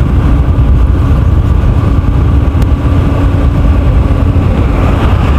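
Yamaha FZ V2's 149 cc single-cylinder engine running at a steady cruising speed, heard from the rider's seat as a steady engine note over a low rumble.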